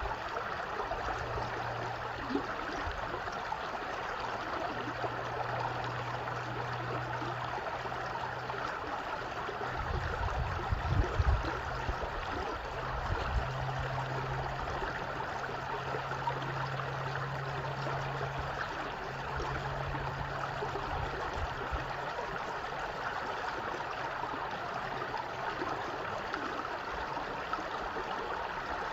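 Stream water flowing and babbling steadily. A faint low hum comes and goes underneath, and there are a few low thumps about ten seconds in.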